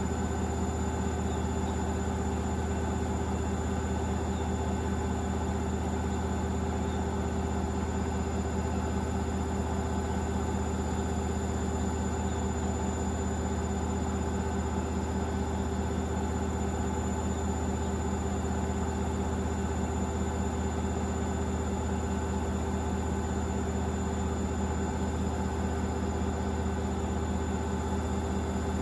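Hoover VisionDynamic front-loading washing machine in its final spin at 1000 rpm: a steady hum and whine from the motor and spinning drum, holding the same pitch throughout.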